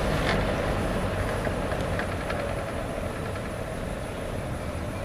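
Frigid B3300 box fan with four-wing metal blades running after being switched down to its low speed, its steady whoosh slowly getting quieter as the blades slow.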